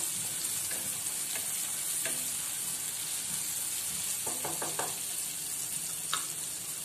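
Chopped onion, tomato and peanuts sizzling in hot oil in a kadhai while being stirred with a wooden spatula: a steady frying sizzle with a few light ticks, and a quick run of them about four and a half seconds in.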